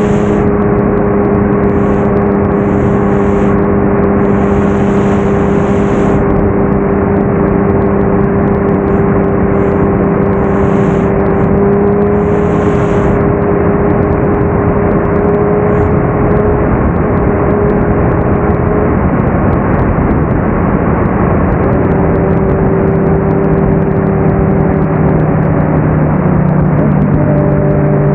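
Kawasaki Ninja 650's parallel-twin engine running at steady cruising revs over a rushing noise. The engine note drops about three quarters of the way in, rises again, then drops lower near the end as the revs fall.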